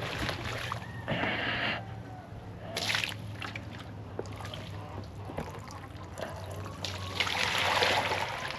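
Water running into a container as it fills, trickling and splashing, with louder surges about a second in, near three seconds and again near the end.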